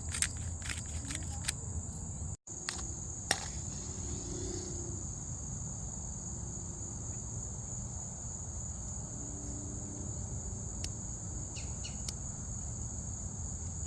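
Steady high-pitched chorus of insects, typical of crickets, running without a break. A few sharp clicks sound in the first few seconds, and there is a brief dropout about two seconds in.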